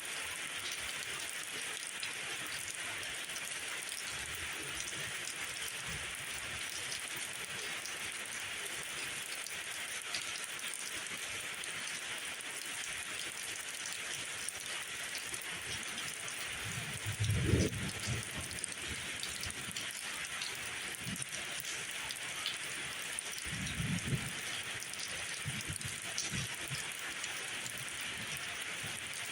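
Steady rain falling, an even dense hiss. Two short, low rumbles rise out of it, one a little past halfway and one near the end.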